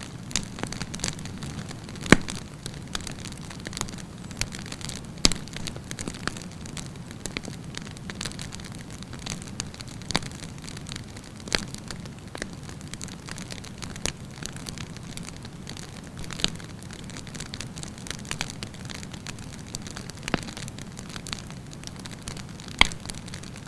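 Wood campfire burning: a steady low rushing of flames with frequent sharp crackles and pops, a few louder pops standing out.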